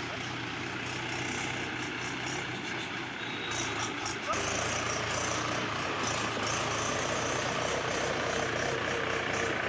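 Swaraj tractor's diesel engine running steadily, growing louder a little over four seconds in.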